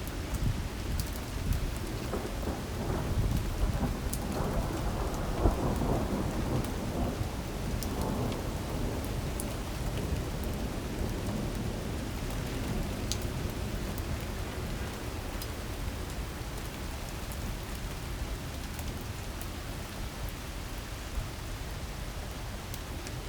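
Heavy rainstorm downpour: a steady rain hiss with scattered sharp drop ticks over a deep rumble. The rumble swells between about four and nine seconds in, then eases a little.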